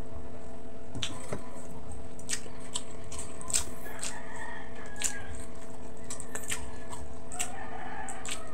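Mukbang eating sounds: wet, sticky chewing and smacking of soft braised pork hock, with the gelatinous meat and skin being pulled apart by hand, and scattered sharp mouth clicks, over a steady hum.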